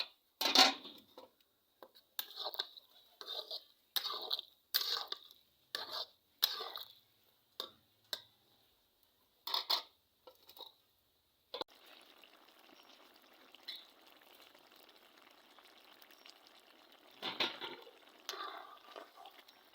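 Kitchen utensils clattering against pots and dishes: a run of about a dozen separate clinks and scrapes, then a steady hiss for about five seconds, and more clatter near the end.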